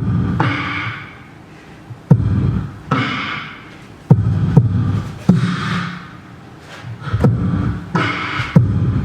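Beatboxing: deep kick-drum booms with hissy snare and hi-hat sounds in short phrases, each phrase trailing off in an echo before the next begins.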